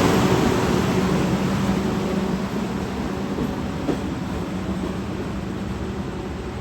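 Diesel-hauled Thai railway train running on the rails, a steady rumble with an engine hum that slowly gets quieter, with one light knock about four seconds in.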